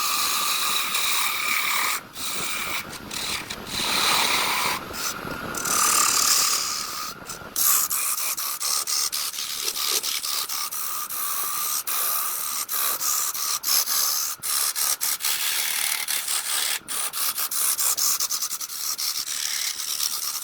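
Woodworking tools working wood in a string of short clips cut together, a steady mechanical noise with a faint whine, broken off abruptly many times.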